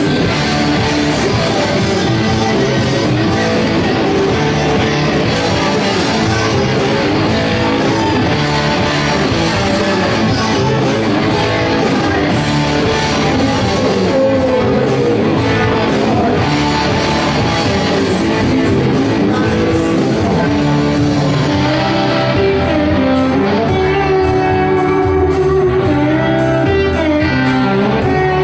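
Rock band playing live, with electric guitar to the fore over bass and drums. In the last few seconds the cymbals and drum hits thin out, leaving sustained guitar notes ringing.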